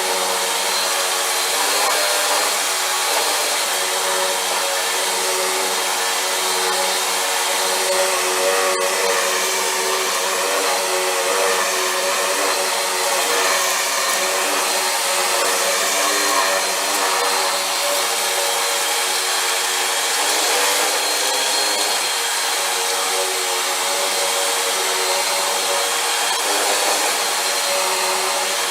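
Vacuum cleaner running steadily, a motor whine over a rushing hiss as it sucks up dirt, with one brief click about nine seconds in.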